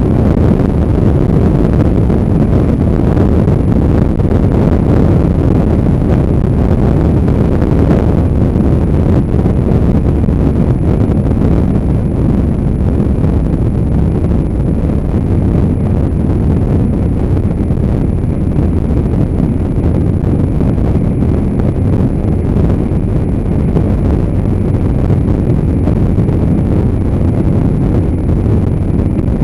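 Heavy wind rush on the microphone over a motorcycle running at a steady road speed.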